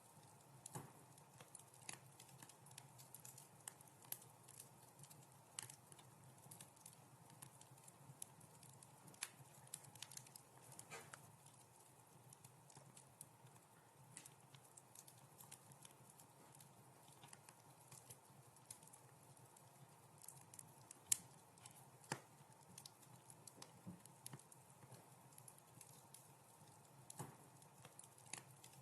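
Quiet wood fire crackling: irregular small pops and snaps over a faint steady low rumble, with one sharper pop about three-quarters of the way in.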